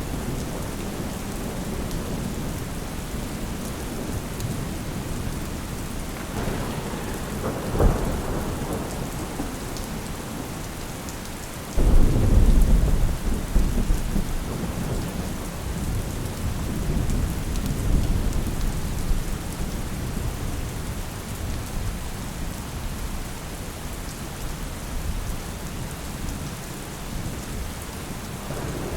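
Steady rain with thunder: a short sharp crack, then a few seconds later a heavy rumble breaks in suddenly and rolls away slowly under the rain.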